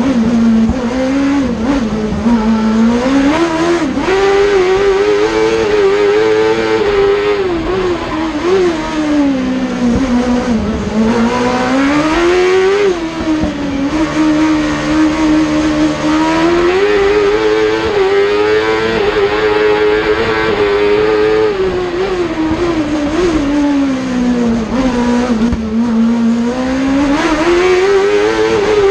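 Peugeot 106 race car with a Suzuki engine running at high revs, its engine note climbing and dropping in pitch again and again as the driver accelerates and lifts off.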